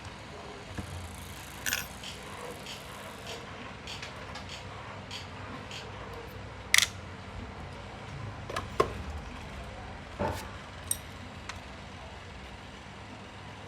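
Scattered light clicks and small metallic taps of tools and clock parts being handled on a workbench, the sharpest click about seven seconds in, over a steady low hum.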